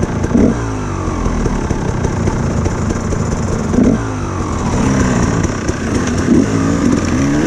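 Dirt bike engine running with repeated throttle blips, its pitch rising and falling, several times in quick succession in the second half.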